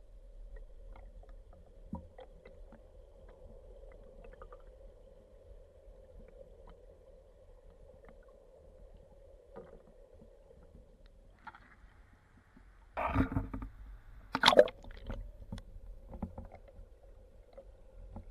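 Muffled mountain-stream water with small clicks, then two loud splashing or knocking bursts about 13 and 14½ seconds in.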